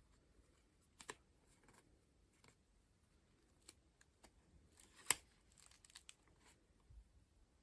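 Paper collage pages being turned by hand: faint, scattered rustles and crinkles, with one sharper paper snap about five seconds in followed by a short run of smaller rustles.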